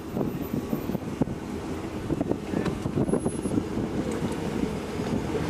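Jeep engine running at low revs, with wind buffeting the microphone.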